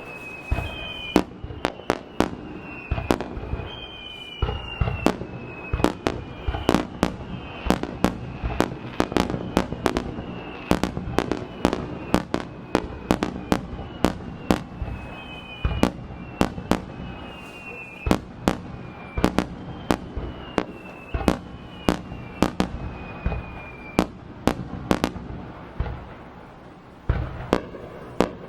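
Fireworks display: a fast, irregular barrage of aerial shell bursts, dozens of sharp bangs, with short high whistling tones gliding slightly downward among them. The bangs thin out near the end.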